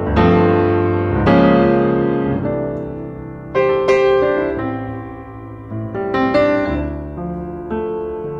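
Background piano music: chords struck every second or two, each ringing and fading before the next.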